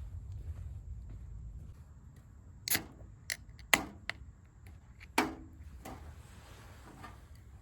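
A handful of sharp, irregular knocks or clacks, about six spread over three seconds, the loudest a little past the middle, over a low steady rumble.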